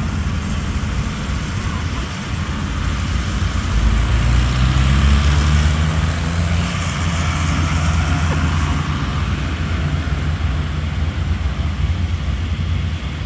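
Tractor engines running as tractors drive past; one grows louder about four seconds in, holding a steady low note for several seconds before easing off.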